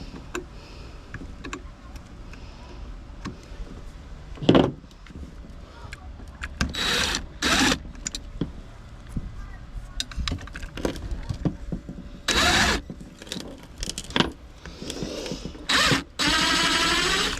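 Cordless drill run in several short bursts, the longest near the end, with a sharp knock about four seconds in and clatter of scrap parts being handled.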